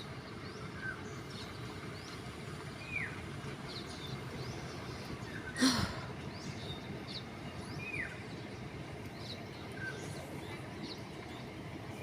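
Birds calling over a steady background hiss: a short downward-slurred call repeats every four or five seconds, with faint high chirps in between. A brief sharp noise a little before the halfway point is the loudest sound.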